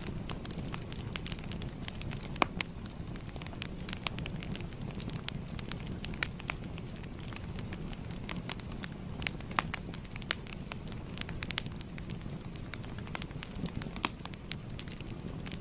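Wood fire burning, with a steady low rumble and frequent sharp, irregular crackles and pops.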